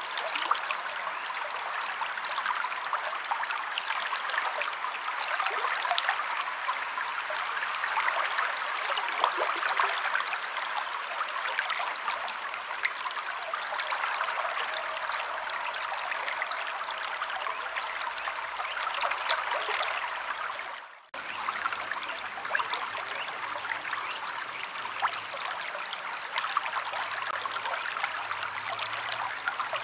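River water flowing steadily over stones, an even rushing and babbling, with faint high bird chirps now and then. The water sound dips out briefly about two-thirds of the way through.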